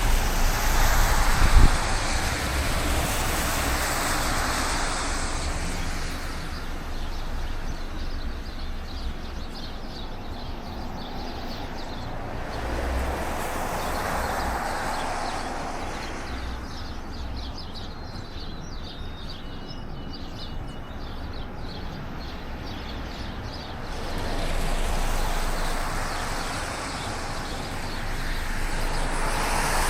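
City street traffic: vehicles passing one after another, each swelling and fading as it goes by, with a short low knock about two seconds in.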